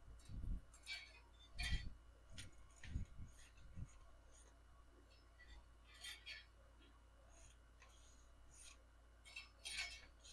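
Faint, irregular small handling sounds: light clicks, clinks and scrapes, with a few soft low knocks in the first four seconds.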